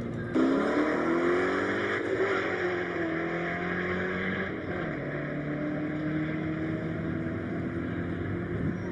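Car engine accelerating hard from a launch, its pitch rising steadily, then dropping abruptly about five seconds in at a gear change and running on at a steady pitch.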